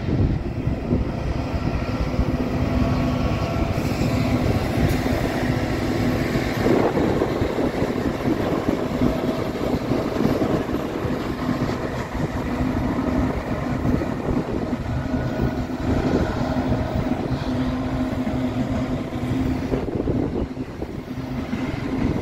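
Freight train passing: yellow diesel locomotives running with a steady engine drone over the rumble and clatter of steel wheels on the rails, followed by acid tank-container wagons rolling by.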